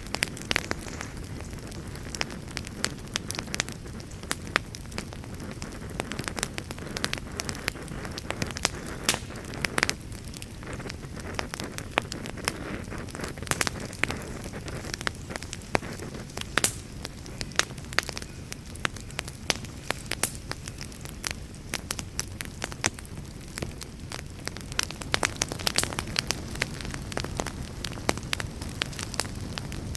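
Wood campfire crackling: frequent irregular sharp pops and snaps over a low steady rush.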